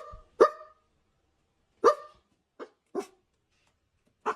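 Parrot mimicking a dog, giving about six short sharp barks at uneven intervals.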